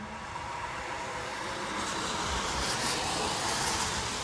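A car passing on a rain-soaked road, its tyres hissing on the wet surface. The hiss swells to a peak near the end.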